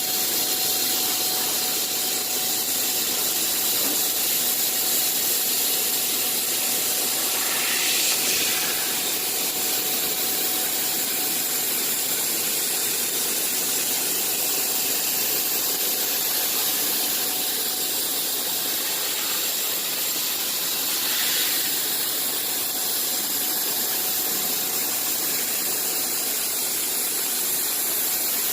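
Bystronic CNC machine running: a steady machine noise with strong hiss and a constant tone, swelling briefly twice.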